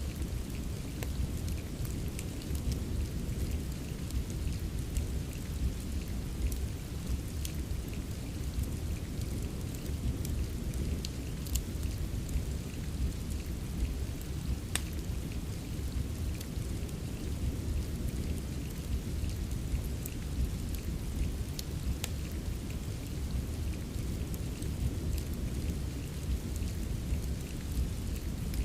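Rain ambience mixed with a crackling wood fire. A steady wash of rain with a deep, even low rumble runs throughout, and scattered sharp pops and crackles from the fire stand out here and there.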